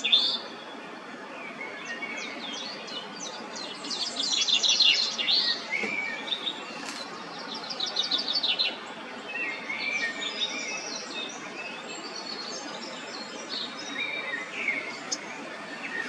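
Several songbirds chirping and trilling, many quick calls overlapping, with rapid trills about four and eight seconds in.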